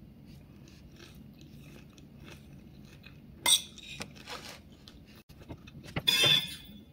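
Close-up chewing of a mouthful of vegetable salad, with soft crunching. A sharp click about halfway through, and a metal spoon scraping and clinking on the plate as it scoops more salad near the end.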